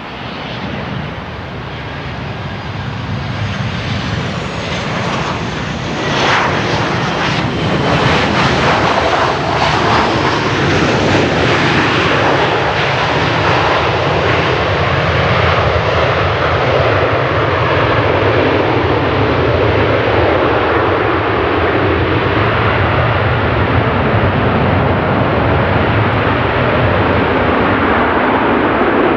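A Boeing 737-800's CFM56 jet engines, growing louder over the first several seconds, then running loud and steady.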